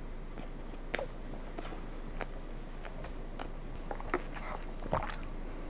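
Close-miked mouth sounds of chewing a soft choco pie, with scattered wet clicks and gulps. She then sips chocolate almond milk through a straw, with small slurps and swallows toward the end.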